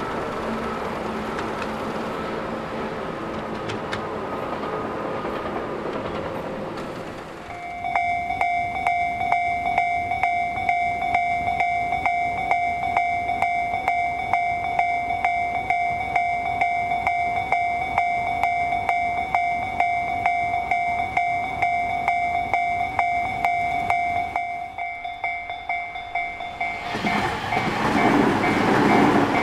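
Tobu 10000 series electric train running at a distance. After a cut about eight seconds in, a steady pitched electronic ringing with a regular beat of about two a second, like a level-crossing alarm, carries on while a Tokyu 5050-4000 series electric train approaches. Near the end the train passes close with a loud rush of wheels and motors.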